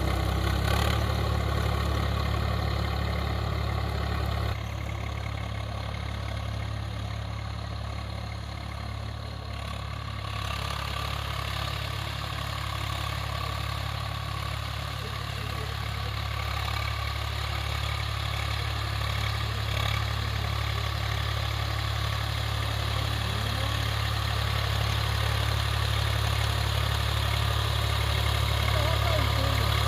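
Swaraj 744 FE tractor's three-cylinder diesel engine running steadily while working a rotary tiller. It drops in level about four seconds in, then slowly grows louder again.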